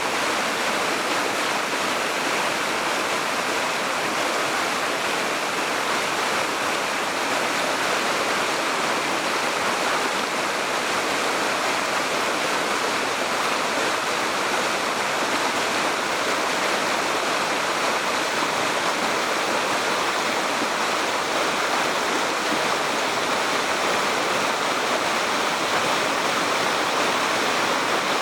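Spring-fed mountain stream flowing steadily, an even, unbroken rush of water.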